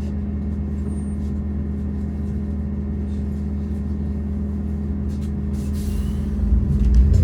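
MAZ-203T trolleybus heard from inside, with a steady low hum from its electric traction equipment. About five and a half seconds in there is a short hiss of air, then the traction motor's whine starts rising as the trolleybus gets under way.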